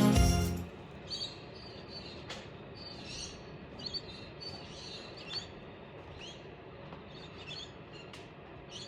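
Birds chirping in short, high calls, some sliding downward, repeated every second or so over a faint steady background hiss. Background music fades out in the first second.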